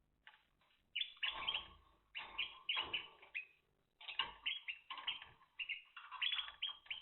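Timbrado canary chirping in several bursts of quick, sliding notes.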